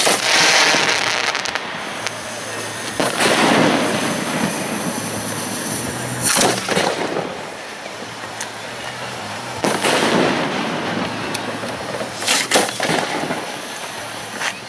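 Fireworks going off at close range from hand-fired ground mortar racks: five loud bursts at roughly three-second intervals over a continuous hiss.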